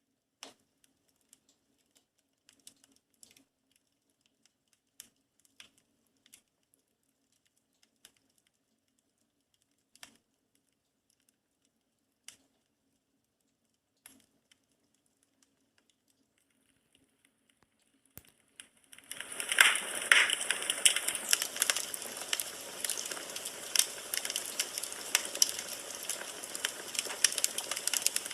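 Firewood burning in a fireplace. At first there are only scattered single pops and crackles, one every second or two, over near silence. About two-thirds of the way through, a dense, continuous crackling of the burning logs sets in and stays loud.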